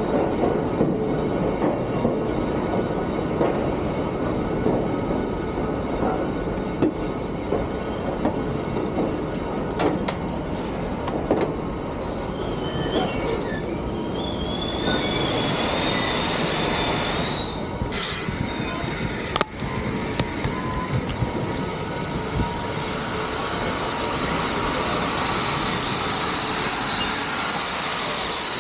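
Western Maryland Scenic Railroad excursion train running on the rails with a steady rumble and clatter of wheels. From about halfway, a high, wavering wheel squeal joins in and slowly rises in pitch.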